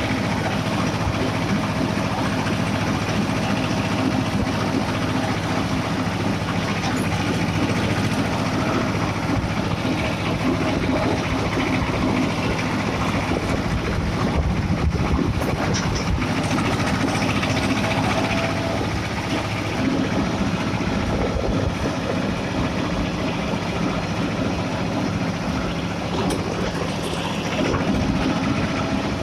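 Escort 335 tractor's diesel engine running steadily under way on the road, with road and rattle noise over it, easing slightly for a few seconds past the middle.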